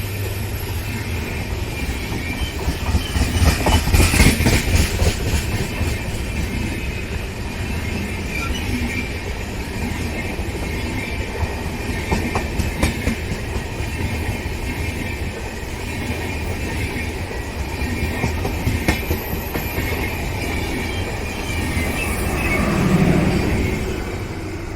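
Passenger train with LHB coaches rolling past: a steady rumble of wheels on rail with a clickety-clack of wheel beats, loudest about four seconds in and swelling again near the end.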